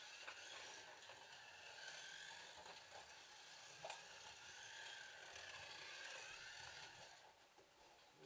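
Faint whine of slot cars running on the track, fading out near the end, with a single light click about four seconds in.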